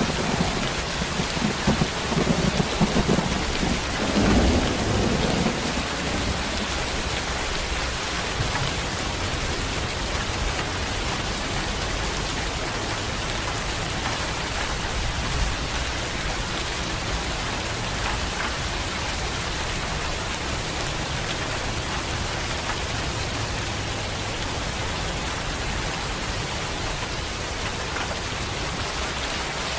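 Steady rain hissing as it falls on the ground. A low rumble of thunder sounds during the first few seconds and dies away about six seconds in.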